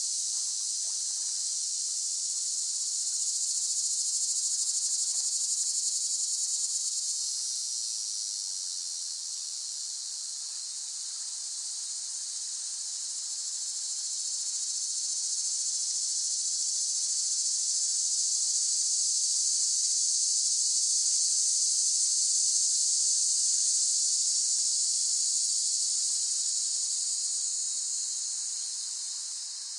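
Cicadas singing in a continuous high-pitched buzzing chorus that slowly swells and eases in loudness.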